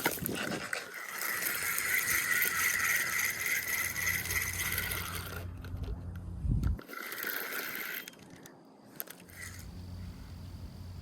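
Spinning fishing reel being cranked, a steady whir that runs for about four seconds, stops, then comes again briefly.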